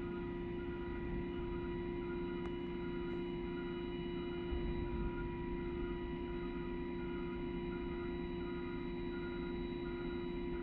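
Steady mechanical hum made of several constant tones over a low rumble, with a fainter tone pulsing on and off about three times every two seconds.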